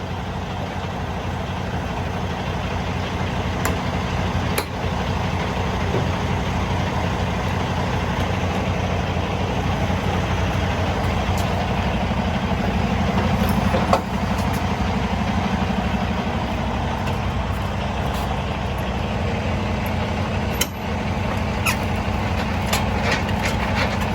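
Semi truck's diesel engine idling steadily, with a few sharp clicks and knocks, more of them near the end.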